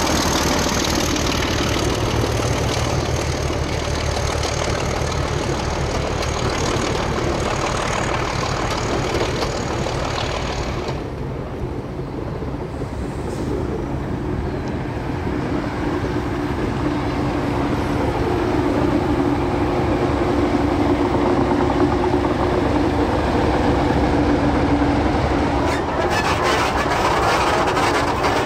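Train of red passenger carriages rolling past on the rails. About eleven seconds in, a DE-class diesel-electric locomotive draws near with a steady engine note that grows louder.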